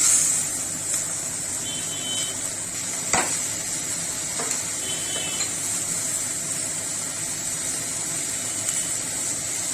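Capsicum, onion and tomato sauce sizzling in a hot kadai. The sizzle grows sharply louder at the start, then holds as a steady hiss while a spoon stirs, knocking once against the pan about three seconds in.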